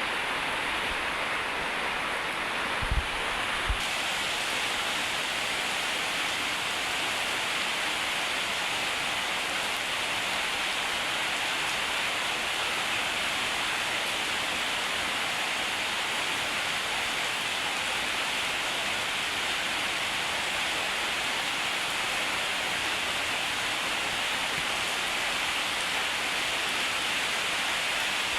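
Heavy rain falling, a steady even hiss of downpour. Two short low thumps come about three seconds in.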